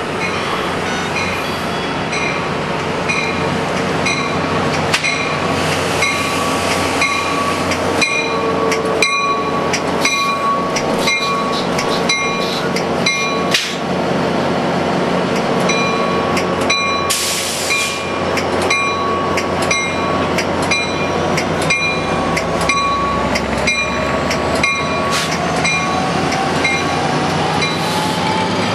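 Amtrak California F59PHI diesel locomotive rolling slowly alongside the platform, its bell ringing at about one and a half strikes a second over the rumble of the engine and the clank of wheels on the rails. A brief hiss of air comes a little past halfway, and a rising whine near the end.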